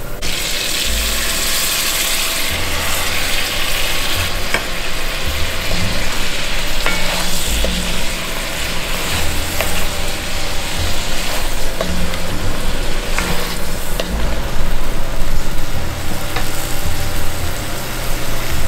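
Shrimp, sausage and butter sizzling steadily in a covered pan over lowered heat, with a few small pops.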